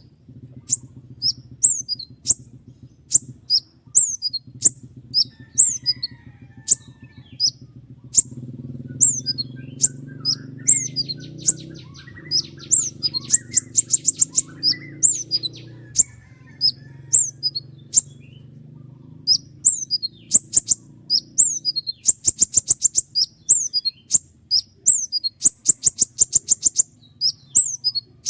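Konin songbird singing loud, sharp whistled notes that slide steeply downward, one to two a second. Fast rattling trills run through them in the middle and again toward the end. A steady low hum lies underneath and drops away about three quarters of the way in.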